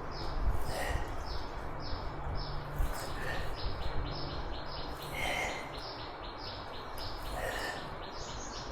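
A bird chirping a rapid, steady run of short high notes, about three or four a second, with another softer call about every two seconds and a low background rumble.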